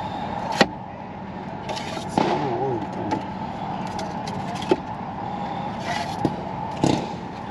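A few short, sharp firework bangs over a steady background. The first, about half a second in, is the loudest; two more come near the middle and near the end.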